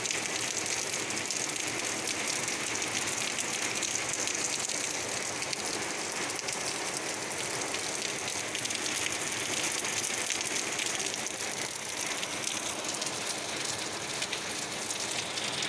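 Rain falling steadily in a downpour, splashing on wet concrete and foliage.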